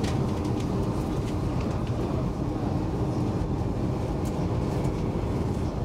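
Steady running rumble of a Stockholm commuter rail X10 electric multiple unit, heard from inside the passenger carriage, with a few faint ticks.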